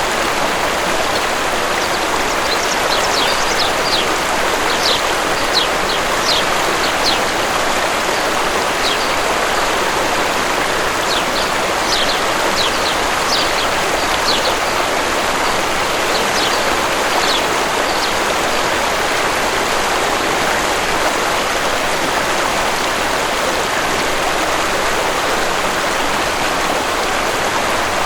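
Waterfall rushing steadily. Small birds chirp in quick runs of short high notes over the water during the first two-thirds, then stop.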